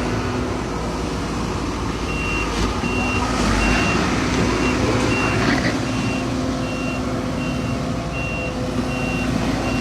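Heavy construction machinery running steadily. From about two seconds in, a backup alarm on one of the machines beeps at a high, even pitch, about one beep every three-quarters of a second.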